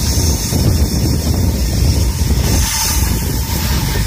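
Steady rumble of a High Speed Train (InterCity 125) running along the rails, heard from a camera held out of its window, with wind rushing over the microphone.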